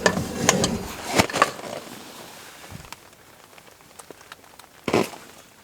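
Serving utensils clicking and knocking against a pot and a collapsible bowl as soup is dished up: several sharp clicks in the first second and a half, then quieter, with one short, louder noise about five seconds in.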